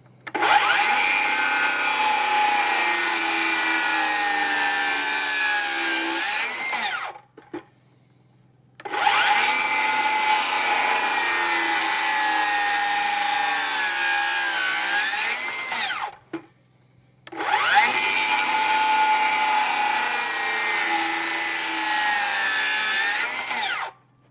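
A cordless circular saw cutting kerfs into wood for a notch. It makes three runs of about six seconds each, with short pauses between them, and its pitch bends as it stops at the end of each run.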